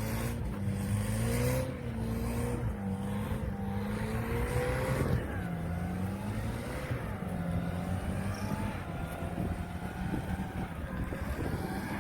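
UAZ 4x4 engine labouring off-road, its revs rising and falling unevenly, with a sharp dip about five seconds in before it settles at steadier revs.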